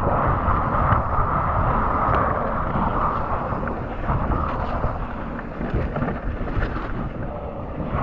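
Mountain bike ridden along a dirt trail, heard from a GoPro mounted on the rider or bike: steady wind buffeting on the microphone over the rumble of the tyres, with a few faint knocks and rattles.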